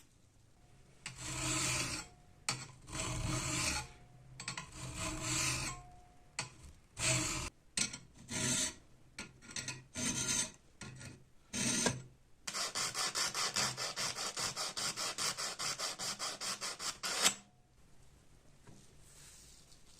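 Hand filing: rasping strokes of an abrasive tool being worked back and forth. First come several long strokes of about a second each, then shorter, uneven strokes, then about five seconds of quick, even strokes at roughly seven a second, which stop suddenly.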